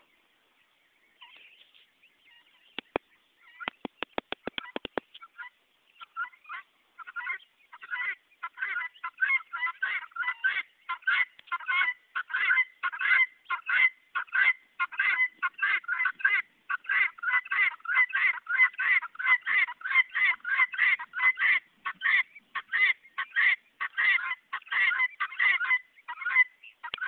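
Guinea fowl calling: harsh, rapid, repeated calls that begin a few at a time and build into a dense, continuous chatter from several birds. Before the calling starts there is a quick run of sharp clicks.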